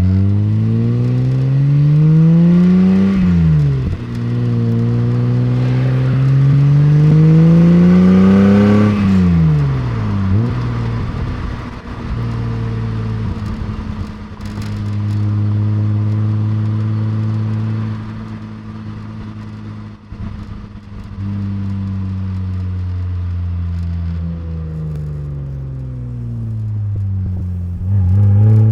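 The 1989 BMW 325is's rebuilt M20 inline-six pulls hard through two gears. The revs climb and fall back at each shift, then the engine holds steady at cruise for a while. It eases off and revs up briefly near the end.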